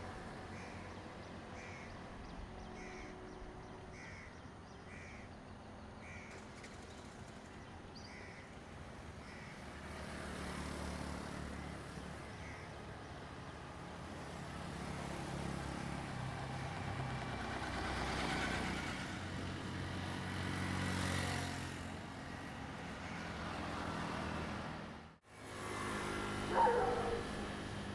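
A train's low rumble building up and passing, swelling twice. In the first nine seconds it is heard under a series of short high calls, evenly spaced at a bit over one a second. It breaks off abruptly, and a short wavering whine follows near the end.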